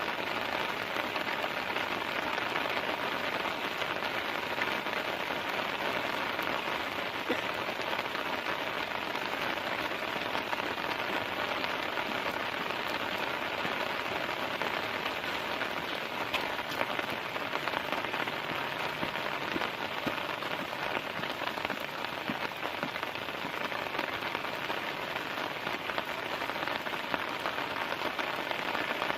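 Heavy rain falling steadily on a tent, an even rush of noise with many individual drop hits and no let-up.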